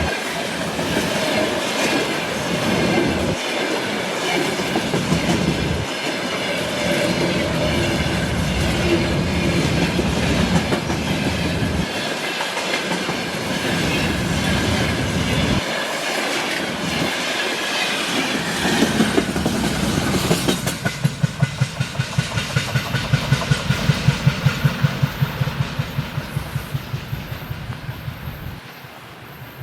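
A train's cars rolling past on the rails, a dense steady rumble with a squealing ring. About two-thirds of the way through it turns into a fast, even clickety-clack of wheels over rail joints, which fades off near the end as the train goes by.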